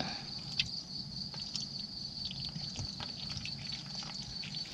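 Scattered small drips and splashes of muddy water as fish are picked out of a mud-baited trap pit, over a steady high-pitched insect chorus.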